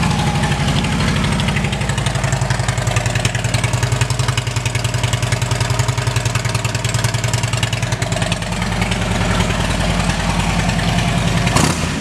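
Harley-Davidson 103 cubic inch V-twin of a 2012 Electra Glide Ultra Limited idling steadily through an aftermarket Vance & Hines exhaust, freshly started, with an even pulsing beat.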